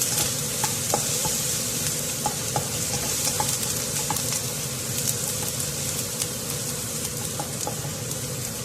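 Bell peppers sizzling as they fry in hot cooking oil in a pan, a steady hiss with scattered pops and crackles, and the odd scrape of stirring.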